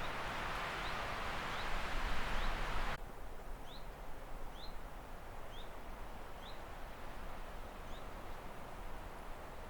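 A bird repeating short, rising chirps about once a second. Under the first three seconds there is a steady rushing hiss, which cuts off suddenly.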